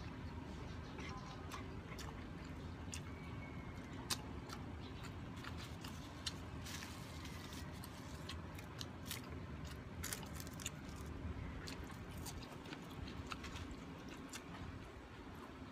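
A person chewing a mouthful of food, with wet mouth clicks and smacks scattered throughout over a steady low background hum.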